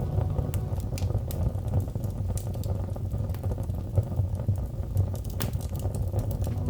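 Wood fire crackling: irregular sharp pops and snaps over a steady low rumble of the flames, with one louder pop about five and a half seconds in.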